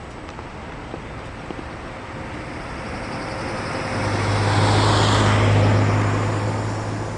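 A motor vehicle passing close by. Its engine hum and tyre hiss swell to a peak about five seconds in, then begin to fade.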